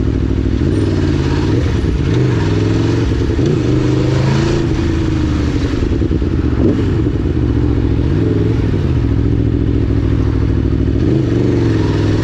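Aprilia Tuono V4 1000's V4 engine running under way, loud and continuous, its pitch rising and falling several times as the throttle is opened and closed.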